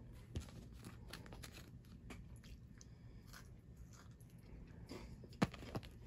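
Faint chewing and crunching of a Kit Kat wafer bar eaten together with a stick of spearmint chewing gum. Irregular small crunches throughout, with a couple of sharper clicks near the end.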